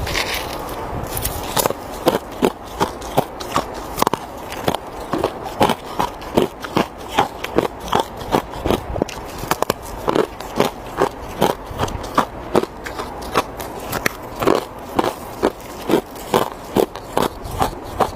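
Ice being crunched between teeth while chewing: a steady run of sharp, crisp crunches, about two to three a second.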